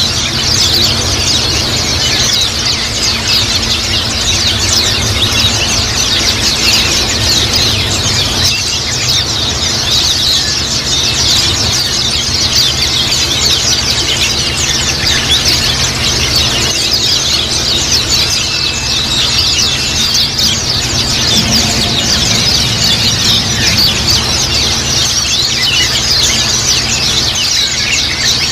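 A flock of white-eyes (pleci) twittering without pause, a dense chatter of rapid high chirps, with a steady low hum underneath.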